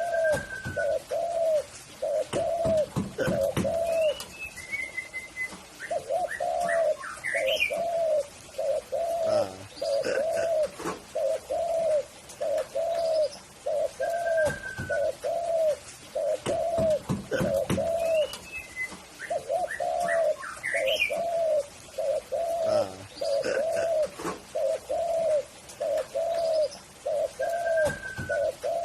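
Spotted dove (tekukur) cooing: a long string of short, rounded coos at about two a second, in runs broken by brief pauses. Another small bird chirps higher up now and then.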